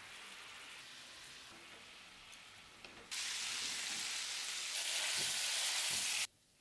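Pork simmering in a wine sauce in a frying pan, a soft, steady bubbling hiss. About three seconds in it gives way to a much louder sizzle as the pork and onions fry in the cooked-down sauce, then cuts off suddenly near the end.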